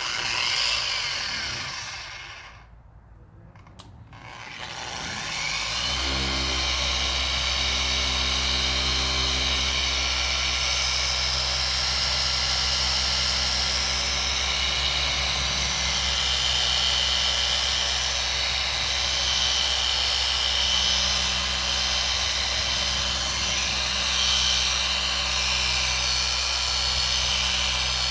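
Small electric polisher fitted with a 3-inch microfiber pad, buffing polish on a plastic headlight lens. It runs briefly at the start, stops for a couple of seconds, then starts up again about five seconds in and runs steadily with a low hum.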